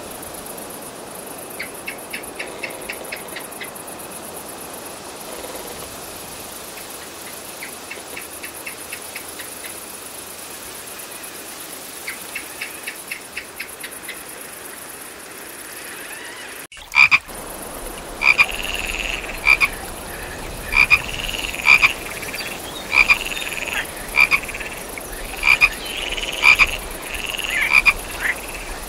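A frog croaking repeatedly, short loud calls about once a second, starting a little past halfway through. Before that there is only a steady high hiss with a few short trains of rapid faint clicks.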